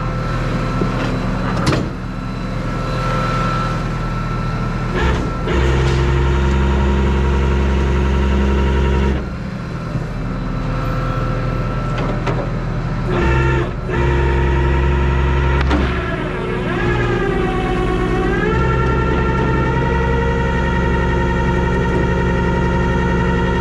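Tow truck engine pulling away and running under load from inside the cab, its pitch changing in steps with brief dips as it shifts gears.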